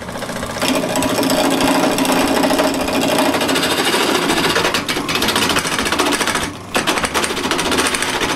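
Wood lathe spinning a square walnut blank while a turning tool cuts it into a handle, with a steady motor hum and a rapid chattering of the tool on the spinning wood. It dips briefly about two-thirds of the way through.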